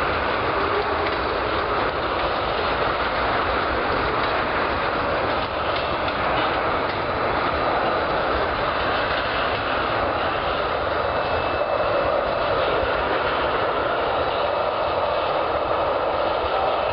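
Freight train of tank cars rolling past, steel wheels on rail making a steady noise.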